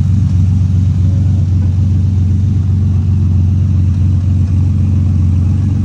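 Car engine running with a steady low rumble, with no change in pitch.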